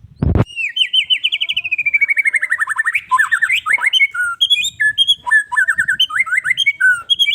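White-rumped shama (murai batu) singing a loud, varied song: a long run of rapid notes sliding down in pitch, then a stream of whistles and quick trills. A short thump at the very start.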